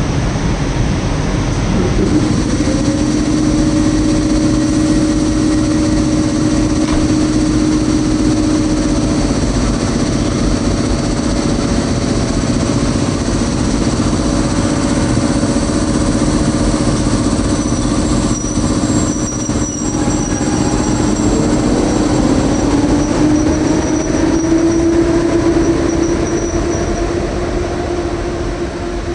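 A PKP Intercity train hauled by an EP07 electric locomotive pulling out of the station. A steady hum runs over the rolling noise of the train and rises in pitch about two-thirds of the way through as the train gathers speed.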